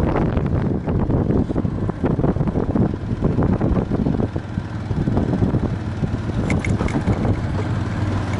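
Wind buffeting hard on the microphone of a moving Viper V250C cruiser motorcycle, with the bike's engine running steadily underneath.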